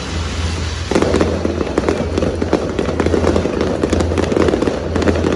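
Fireworks crackling: a dense run of rapid pops starts about a second in and keeps going.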